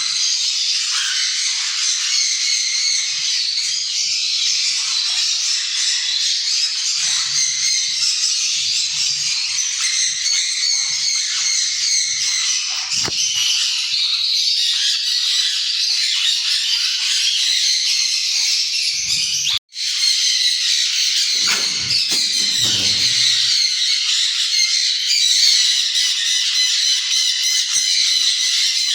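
A flock of small parrots, lovebirds and sun conures, chattering and squawking without pause in a dense high-pitched din. It breaks off for an instant about twenty seconds in.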